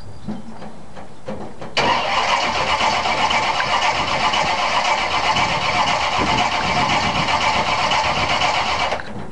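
Starter cranking the 1971 Chevy pickup's 355 small-block V8 on a cold start after a month of sitting. It starts suddenly about two seconds in, runs steadily for about seven seconds with a high whine, then stops abruptly.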